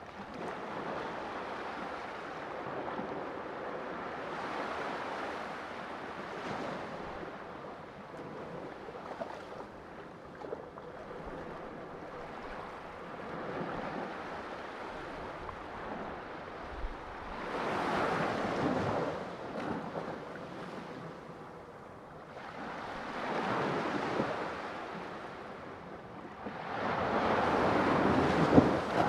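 Sea waves washing in and breaking, a continuous surf rush with louder surges rising and falling every few seconds, the biggest near the end.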